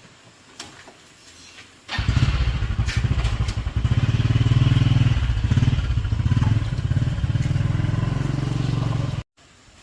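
A small motorcycle engine starts up about two seconds in and runs with a fast, even beat, rising a little in pitch shortly after starting, then stops abruptly near the end.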